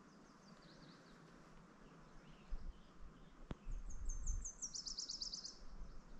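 A songbird sings one fast, trilled phrase: high notes that step down into a lower, quicker run, with faint chirps from other birds at the start. A low rumble on the microphone comes in about halfway, with a single sharp click just before the song.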